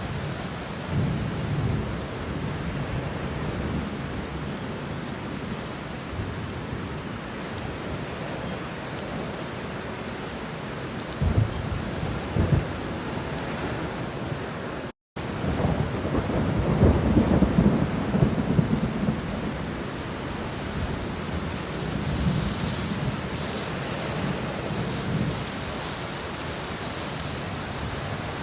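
Homemade thunderstorm sound effects: steady rain hiss with thunder rumbling. Two sharp cracks come about eleven and twelve seconds in. After a split-second dropout about halfway through, a longer, louder rumble follows.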